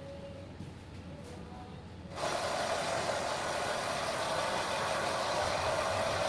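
Hair dryer switched on about two seconds in, then blowing at a steady full rush.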